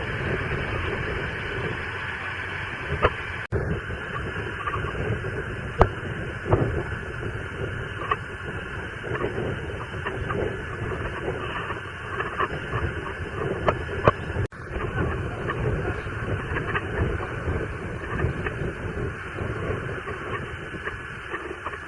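Forest fire burning: a steady rushing noise with many sharp crackles and snaps scattered through it.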